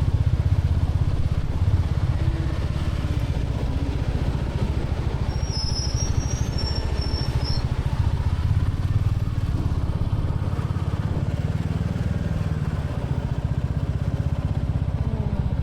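Royal Enfield Classic 350's single-cylinder engine running steadily under way, its exhaust thumping evenly without revving up or down.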